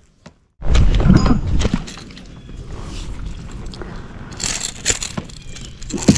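Rattling and knocking handling noise of fishing gear in a kayak, picked up close by the camera's microphone, starting after a brief dropout with a heavy low rumble for the first second or so.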